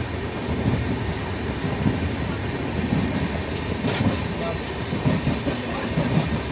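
12605 Pallavan Express running along the track: a steady, uneven rumble of wheels on rails, with a sharp click about four seconds in.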